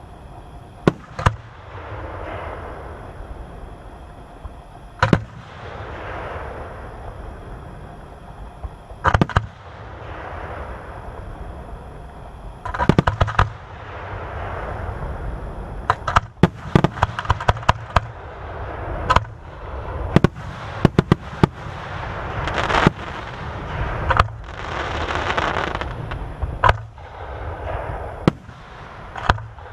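Aerial fireworks shells bursting: a few sharp bangs spaced seconds apart, then a rapid string of bangs in the middle, with swells of rushing, crackling noise between them.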